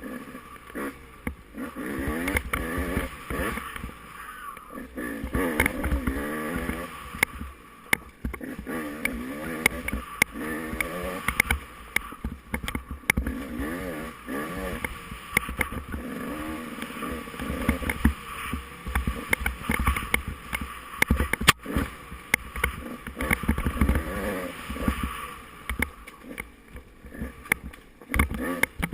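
Off-road motorcycle engine revving up and falling back again and again, every second or two, under a low rumble, with scattered sharp knocks.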